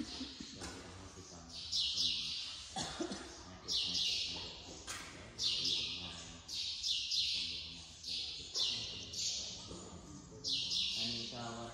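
A bird calling again and again in short, raspy, high-pitched chirps, about one every second to second and a half, each starting sharply and fading away. Faint low voices murmur underneath.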